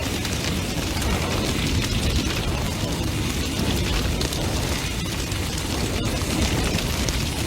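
Large bonfire burning intensely, crackling and popping constantly over a deep, steady rumble of flame.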